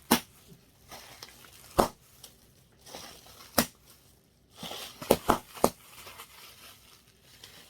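Packaging being handled and crinkled as the box is unpacked: a handful of sharp, separate crackles, with a quick run of three about five seconds in.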